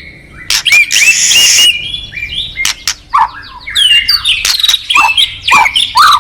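A songbird singing a fast, varied song of quick whistled sweeps and chirps, with a harsh, raspy burst about a second in.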